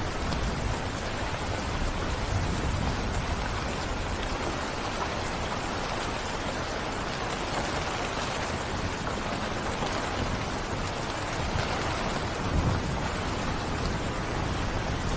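Heavy rain falling steadily in a dense, even hiss, with a brief low rumble about twelve seconds in.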